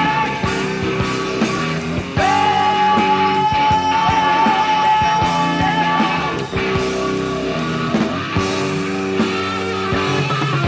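Hard rock band playing an instrumental passage over bass and drums. A lead electric guitar slides up into a long held note with vibrato about two seconds in and sustains it for about four seconds.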